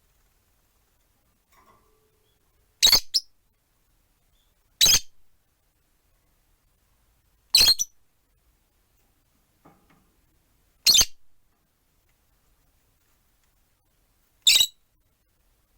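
Rosy-faced lovebirds giving five short, shrill calls, spaced a few seconds apart.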